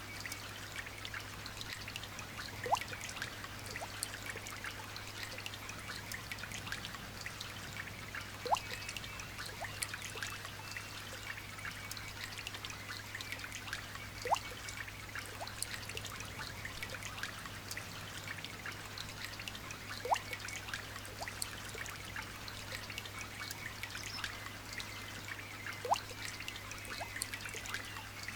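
Light rain falling as a steady hiss of many small drop ticks, with a single louder water drop plinking about every six seconds, five times in all. A faint steady low hum runs underneath.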